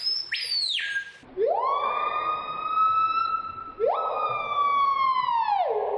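Screaming piha calling with loud, pure whistles: two short high notes, then two long whistles that each swoop sharply upward and hold, the second dropping in pitch near the end.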